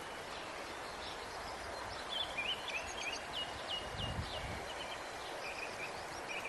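Outdoor ambience: small birds chirping with quick gliding calls and short repeated notes over a steady background hiss, with a soft low thud about four seconds in.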